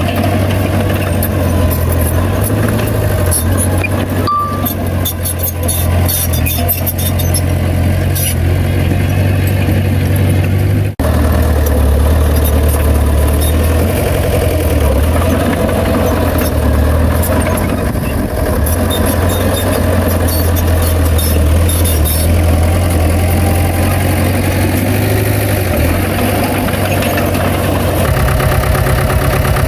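Heavy earthmoving machinery's diesel engine running steadily, with bursts of metallic rattling and one short reversing beep about four seconds in.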